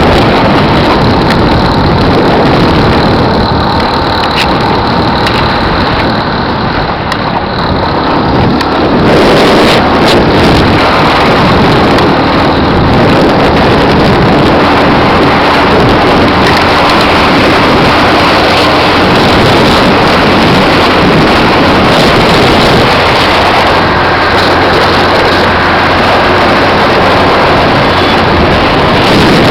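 Helicopter flying very low: a loud, steady rush of rotor and engine noise, with rotor wash buffeting the microphone.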